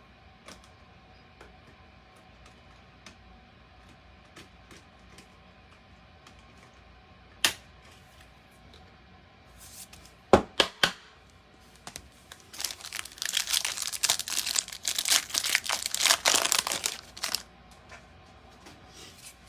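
A trading-card pack's foil wrapper being handled and torn open: a few sharp clicks, then about five seconds of loud crinkling and tearing.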